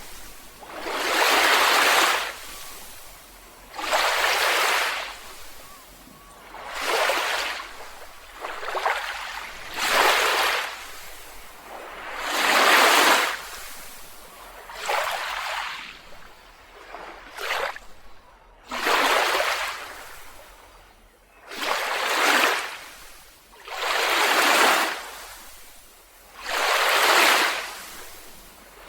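Small waves breaking and washing up a beach one after another, about every two to three seconds. Each is a rush of hiss that swells and fades away.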